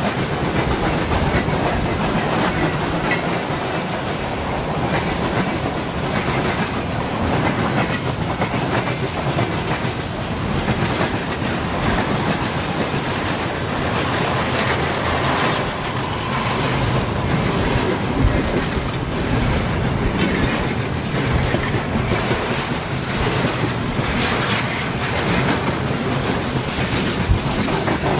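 Freight train rolling past: a steady rumble of the wagons with the clickety-clack of wheels over rail joints.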